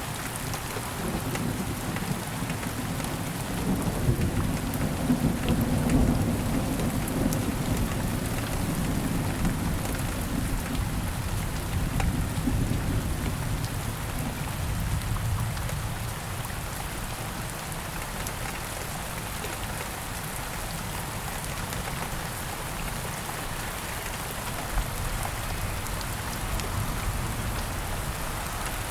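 Steady rain falling. A low rumble of thunder swells about four seconds in and fades away by about halfway through.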